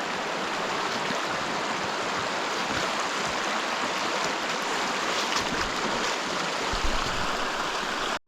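Steady rush of river water running over rocks, an even hiss with no pauses, cut off abruptly near the end.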